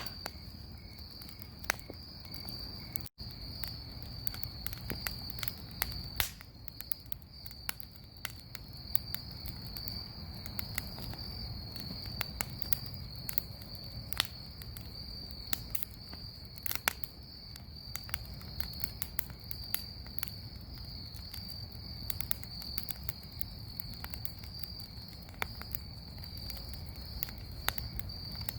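Bonfire crackling, with many sharp pops and snaps over a low steady rumble, while insects keep up a continuous high-pitched trill.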